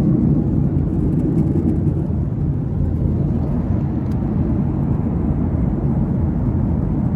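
Steady low rumble of airplane cabin noise: engines and airflow heard from inside the passenger cabin.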